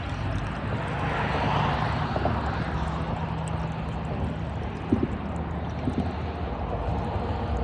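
Water running and splashing out of a hole drilled in a plastic trash can full of water, a steady stream draining the can. A low steady hum sits under it for the first half.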